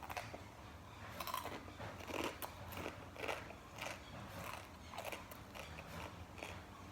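Close-up chewing of crunchy food, a wet crunching bite roughly every half second.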